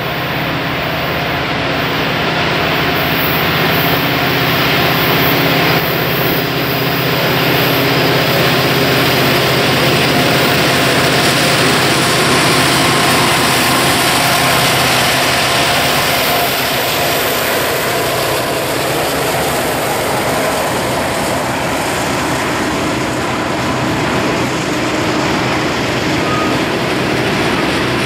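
Two diesel freight locomotives, an EMD SD70M-2 and a GE C40-8M, drone steadily as they approach and pass close by. About halfway through their engine drone fades into the steady wheel-on-rail rumble of freight cars rolling past.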